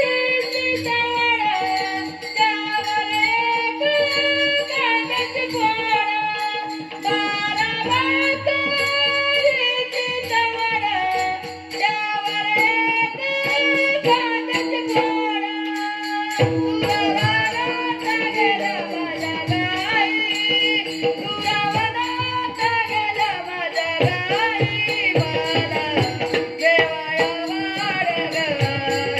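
Marathi gavlan folk devotional music: a bending melody over a steady held drone note, with drum strokes coming in more strongly about halfway through.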